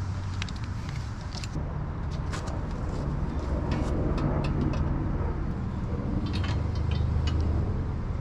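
A low rumble that swells twice, with scattered sharp clicks and taps of hand tools and metal parts as bolts on the motorcycle crash bars are worked on.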